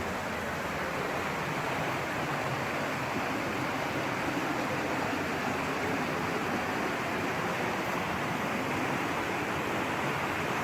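Steady rush of flowing water, an even wash of noise that swells slightly about two seconds in.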